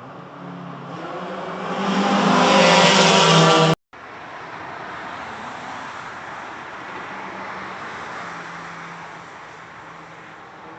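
A car's engine grows steadily louder as it approaches, then cuts off suddenly just under four seconds in. After that, a quieter, steady engine sound from a car on the track takes over.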